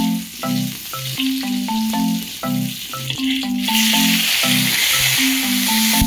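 Shallots, garlic and green chillies sizzling in a steel kadai. The sizzle grows sharply louder about two-thirds of the way through, as fresh gongura (roselle) leaves are dropped in. Background music with a repeating melody plays throughout.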